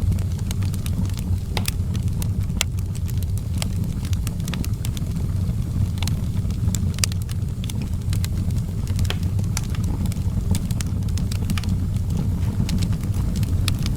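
Outdoor wood fire burning with a steady low rumble of flames and irregular sharp crackles and pops from the burning wood.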